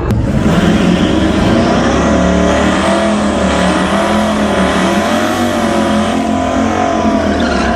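Vehicle engine running hard at full throttle in a drag-strip run, loud and steady. It starts suddenly and falls away near the end.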